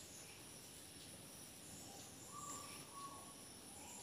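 Near-quiet outdoor background with a few faint, short bird chirps and a brief whistled note.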